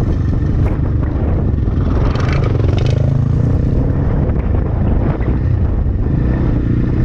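Templar X 250 dirt bike engine running under way, mixed with heavy wind buffeting on the microphone. A few brief knocks come a couple of seconds in.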